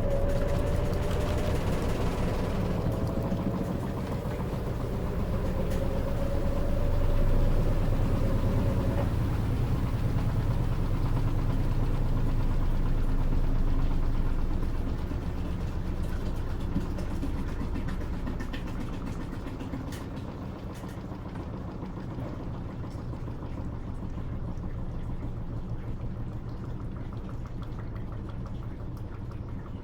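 Electrolux LT13B top-load washing machine draining, with a steady low motor and pump hum. Over the first nine seconds a thin whine rises slowly in pitch, then fades away.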